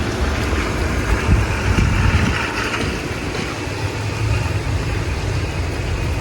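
Steady storm wind blowing, with a low rumble underneath.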